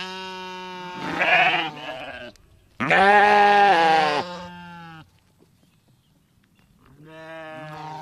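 Sheep bleating: a series of long, steady bleats, the loudest about three seconds in and the last one starting near the end after a short pause.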